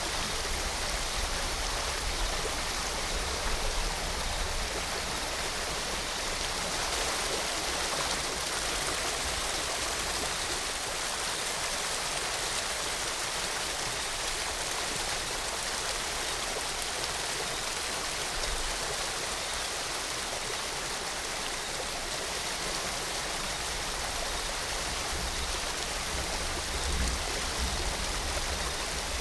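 Steady rush of rain and a waterfall's falling water, with a low rumble underneath that is stronger near the start and swells again near the end.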